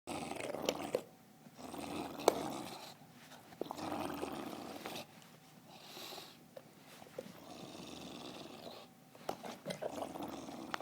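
A dog growling in rough bursts of about a second each, with quieter gaps between them and a sharp click about two seconds in.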